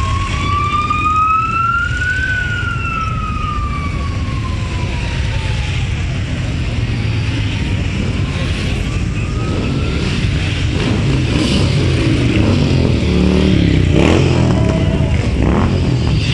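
A siren wailing slowly up and down, rising, falling and rising again over several seconds, above the continuous rumble of many Harley-Davidson V-twin motorcycle engines.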